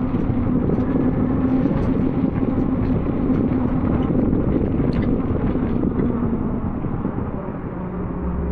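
Wind rushing over the microphone and tyre noise as a HappyRun G18 Pro fat-tyre e-bike rides on a wet road, with a steady hum that fades about six seconds in.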